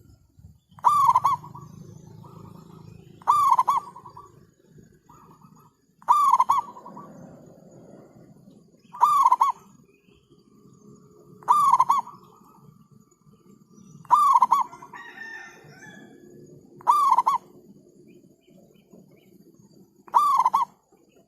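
A bird calling: a short, loud call repeated eight times, roughly every two and a half seconds, with fainter background bird calls between.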